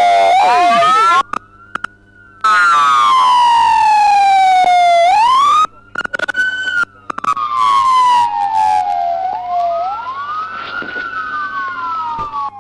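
Police car siren in its wail mode: a loud, slow rise and fall in pitch, repeating every few seconds, with a second siren's wail crossing it at times. The siren drops away twice, briefly, in the first half.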